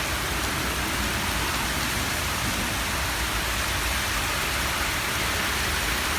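Heavy rain pouring down steadily, falling on a flooded city street.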